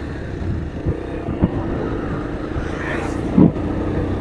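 Motorcycle engine running at a steady speed while riding, with a few short bumps and a louder thump about three and a half seconds in.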